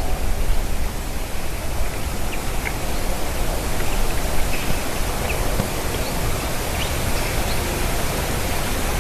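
A steady rushing noise, heaviest in the low end, with faint, short high chirps of small birds scattered through it.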